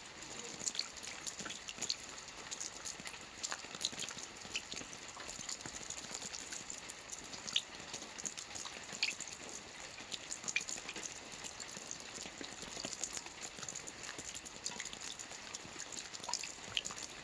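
Soft rain falling on a roof: a steady hiss of rain with many separate drops ticking sharply through it.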